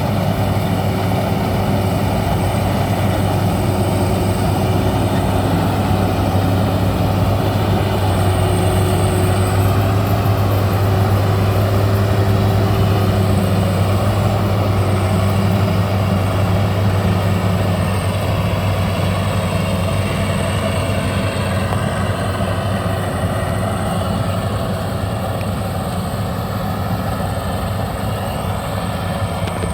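Maxxi BIMO 102 combine harvester's engine running steadily with a deep, even hum, growing a little quieter over the last several seconds.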